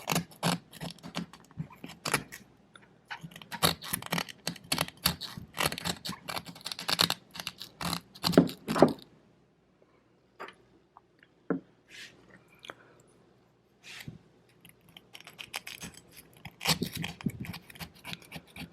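Rapid scraping and scratching of a tool against a fouled engine valve, working off its deposits. It runs in dense strokes for about nine seconds, goes nearly quiet apart from a few ticks, then starts again near the end.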